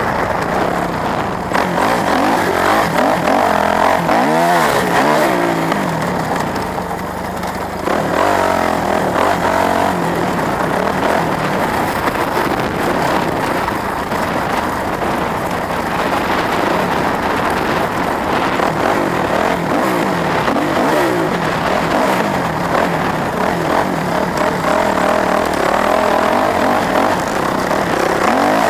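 Engine running under a steady loud rumble, revving up and down several times.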